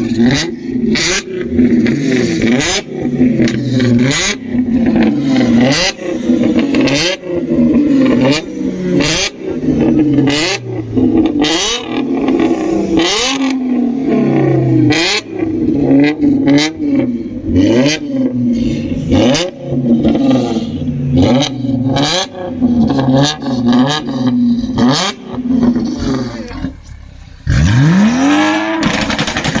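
A sports car engine revved hard in quick blips, about one a second, with sharp exhaust pops and bangs cracking between the revs. Near the end it falls away briefly, then revs up again steeply.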